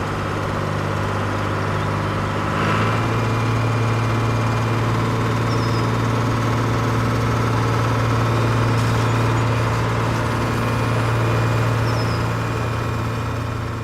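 Small engine of a DIY mini tractor running steadily; about three seconds in its pitch drops and it gets louder, then holds steady.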